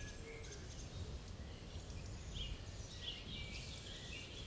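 Faint, scattered chirps of birds over a steady low background rumble.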